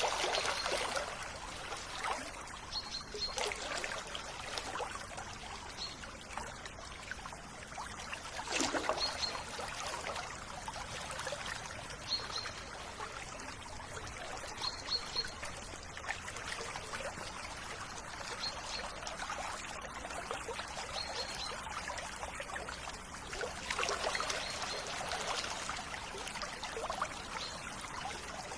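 River water flowing steadily, with a small bird giving short high chirps every few seconds.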